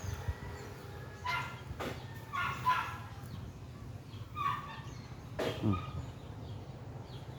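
A handful of short animal calls, the loudest about two and a half seconds in, over a steady low hum.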